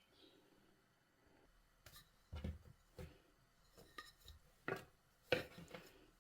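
A series of light knocks and taps from kitchen items being handled, about seven in all. They begin about two seconds in and grow louder towards the end.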